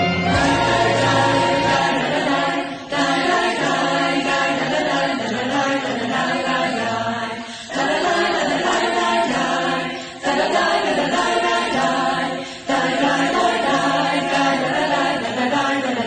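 Choral singing, a choir's voices sung in phrases with a short break between each.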